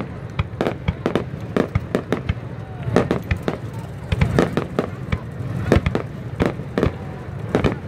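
Aerial fireworks bursting in a rapid, irregular run of sharp bangs and cracks, several a second, over a steady low rumble.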